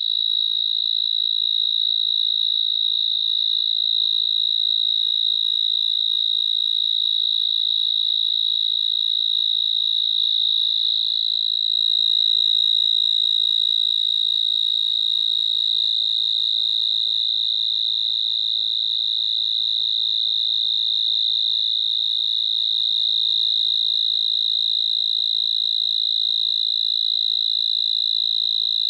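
A loud, continuous high-pitched shrill tone, held unbroken and at an even pitch, with a slight waver about halfway through.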